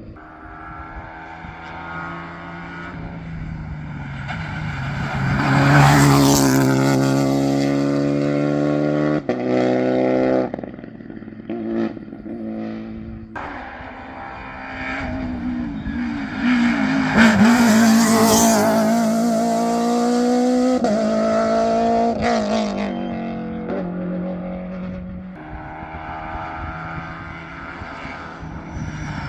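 Modern rally cars at full throttle on a special stage. The engines rev and climb in pitch through quick upshifts, loudest as the cars pass twice, about a fifth and about two-thirds of the way in.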